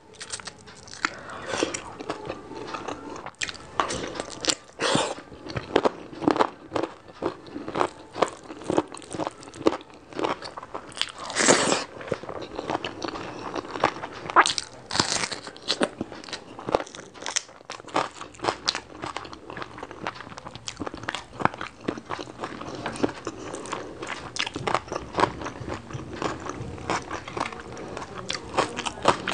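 Close-miked eating sounds of rice and meat curry eaten by hand: continuous wet chewing and mouth clicks, with a few loud crunchy bites, raw red onion among them, in the middle.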